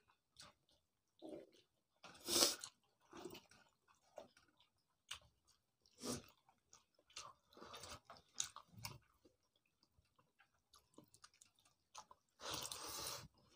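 A person chewing and eating pakhal bhat (rice soaked in water) and omelette by hand: soft, irregular mouth clicks and smacks, with a louder, longer noise about two seconds in and another near the end as the hand scoops the wet rice from the pot.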